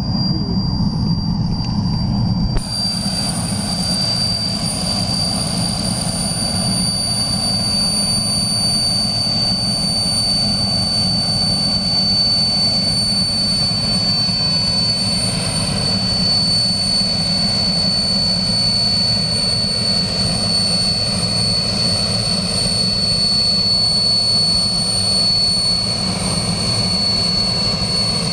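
Crop-spraying helicopter in flight: steady engine and rotor noise with a constant high whine.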